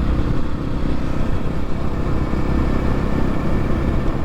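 X-Pro Templar X 250 dirt bike engine running steadily while under way, with wind noise over the camera microphone.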